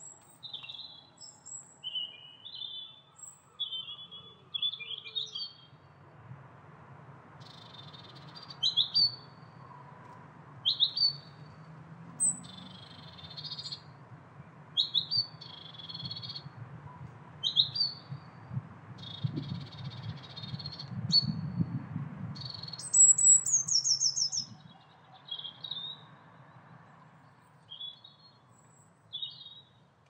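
Small garden birds chirping and twittering in short high notes about every second, with a fast run of notes falling in pitch about three-quarters of the way through. A low rumble runs underneath and swells in the middle.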